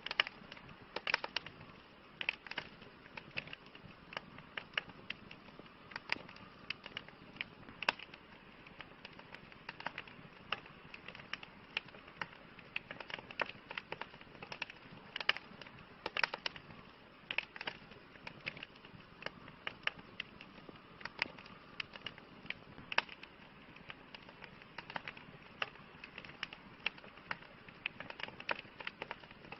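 Campfire crackling: irregular sharp pops and snaps of burning wood, several a second, over a soft steady hiss.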